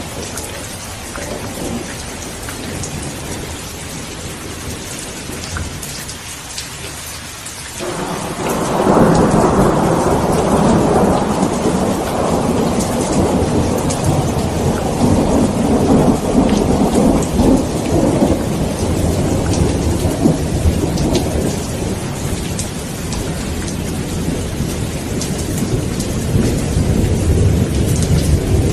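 Steady rain falling through a thunderstorm. About eight seconds in, a loud clap of thunder breaks and rolls on as a long, deep rumble that slowly fades.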